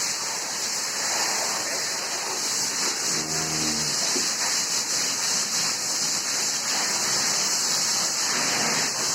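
Steady hiss of water spraying and splashing as cows are washed down. A brief low pitched call comes about three seconds in.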